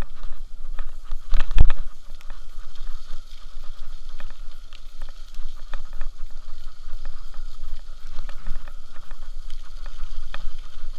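Steady low rumble of wind on the microphone, with faint scattered clicks and one louder bump about a second and a half in.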